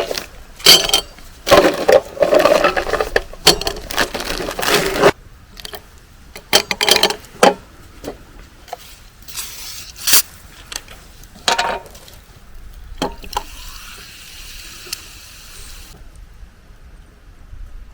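Objects being handled: a quick run of knocks, clinks and rustles for the first five seconds, then scattered clicks and a soft hiss lasting about three seconds near the end.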